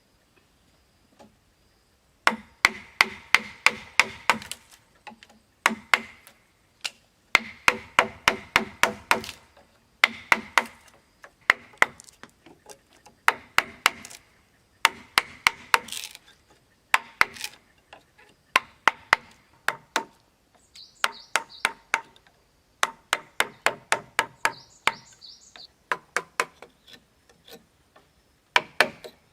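Rapid chopping strikes of a hand tool into wood, about four or five a second, in runs of a few seconds broken by short pauses.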